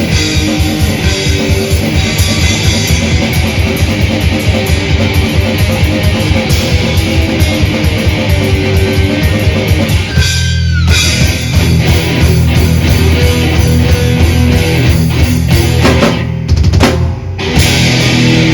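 Live death/thrash metal band playing: distorted electric guitars, bass and fast drumming. About ten seconds in, the band breaks off briefly with a falling squeal, then comes back in on sustained heavy chords, with a short stop near the end.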